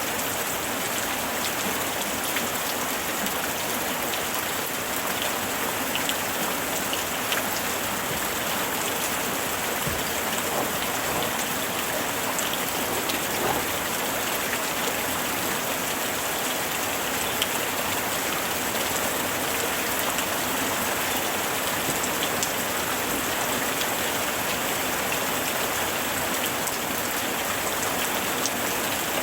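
Steady summer rain falling, an even hiss with scattered drops ticking on a surface.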